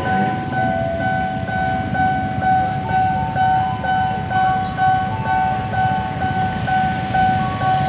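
Electronic railway level-crossing warning bell ringing in a steady repeating pattern, about two strikes a second, with alternating tones. A dense low rumble of traffic or a train runs underneath.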